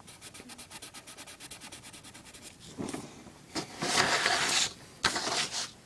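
Faint rapid ticking, then three bursts of rubbing and scraping against a surface, the loudest about four seconds in.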